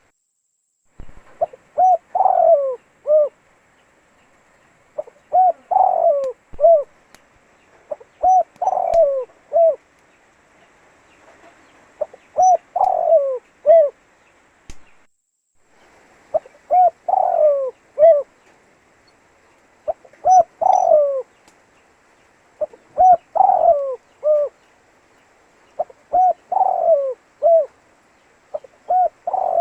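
Spotted dove (tekukur) singing: repeated cooing phrases of several short notes, one phrase about every three seconds, about nine in all.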